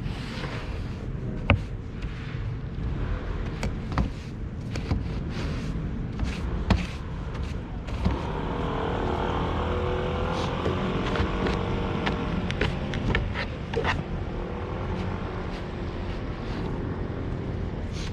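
Snow being cleared off a car by hand: scattered sharp knocks and scraping over a steady low vehicle rumble, which swells with a wavering hum for several seconds in the middle.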